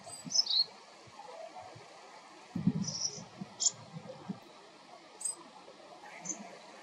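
Wild songbird calls: short, high chirps, the first a quick falling note near the start, then a few more brief high calls spread through the rest. A cluster of low thumps or rustling comes a little before the middle.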